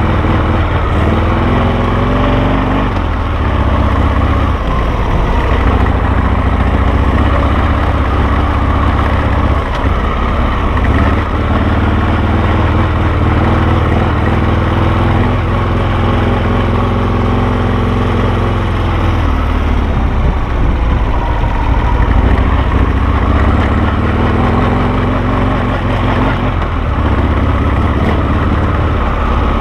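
Harley-Davidson Sportster V-twin engine of a Carducci SC3 Adventure dual-sport motorcycle running under way, its pitch rising and falling as the throttle opens and closes.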